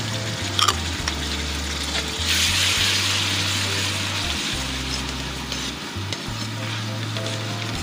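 Sliced onions and freshly added chopped tomatoes sizzling in hot oil in a steel pot as a metal spoon stirs them, with a couple of sharp clinks of the spoon against the pan near the start. The sizzle swells about two seconds in as the tomatoes are pushed through the oil.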